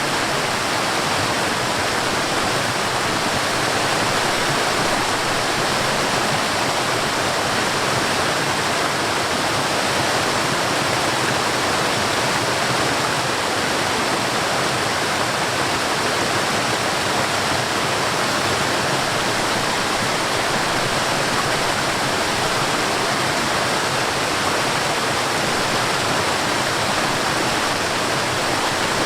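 Water of a mountain stream tumbling over a waterfall: a steady, even rush with no breaks.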